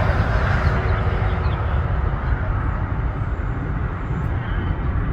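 Airplane engine roar from a departing plane, a steady deep rumble whose higher part slowly fades as the plane climbs away.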